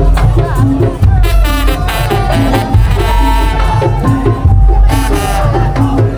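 Madurese tong-tong ensemble playing loud, fast rhythmic percussion with a gliding melody line on top.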